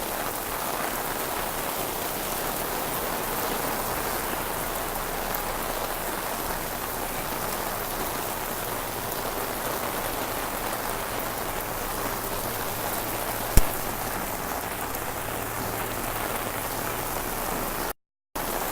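Heavy rain falling steadily, an even rushing hiss, with a single sharp click about thirteen and a half seconds in; the sound cuts out for a moment near the end.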